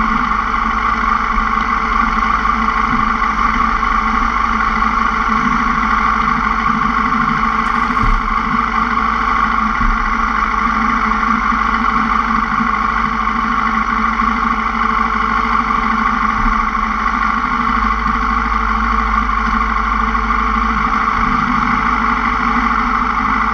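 Yamaha R6's 600 cc inline-four engine idling steadily at low revs, with no revving.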